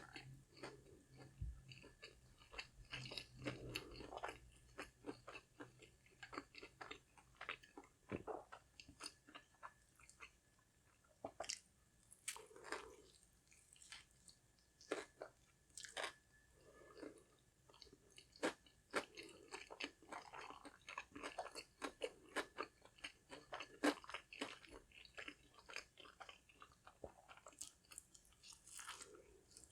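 Close-miked chewing of crispy fried fast food: repeated crisp crunches between softer wet chewing.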